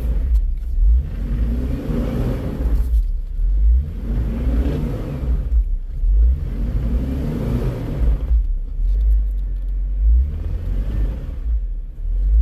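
Jeep engine revved in repeated surges about every two seconds, pitch rising and falling with each push, as the stuck Jeep tries to climb over rocks while hung up on its underside.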